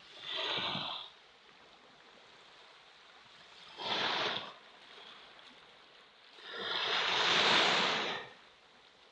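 Ocean waves washing in, heard as three surges of rushing water. Two are short, one just after the start and one about four seconds in, and the third, longer and louder, comes in the second half.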